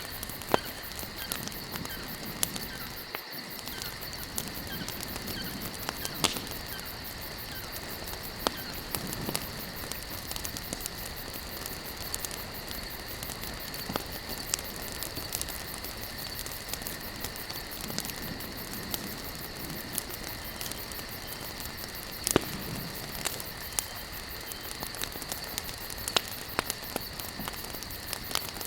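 Campfire of burning wood logs crackling, with frequent sharp pops at irregular intervals over a steady hiss, and a steady high-pitched drone underneath.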